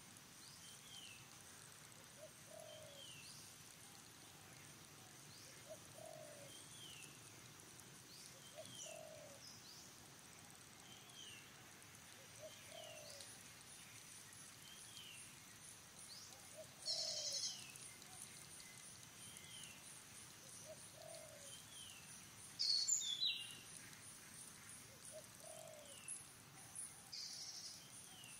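Faint forest ambience: a bird repeats a short, low, rising call about every second and a half over a steady high buzz. A few louder, sharp high chirps stand out about two-thirds of the way through and near the end.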